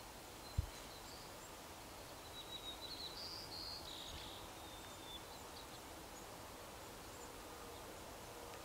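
Quiet outdoor riverbank ambience with a short run of thin, high-pitched chirps and whistles from a small bird between about one and four seconds in. A single short low thump comes about half a second in.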